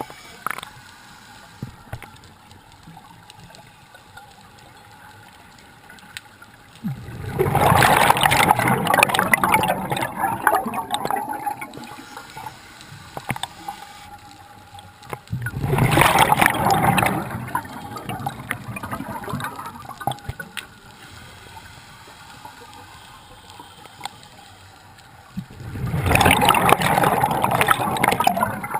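Scuba diver's exhaled bubbles rushing and gurgling from the regulator, heard underwater. There are three long exhalations about nine seconds apart, with a fainter steady noise between them.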